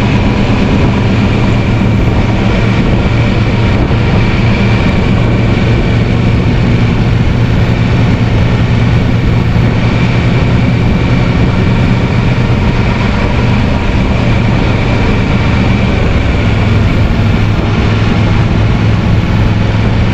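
Kawasaki Versys 650's parallel-twin engine running at a steady speed under way, with road and wind noise.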